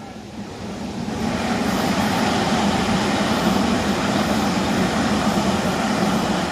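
Electric train on the Tobu Skytree Line passing over a level crossing. The rumble of wheels on rail swells over the first second or so, holds loud and steady, then begins to fade near the end.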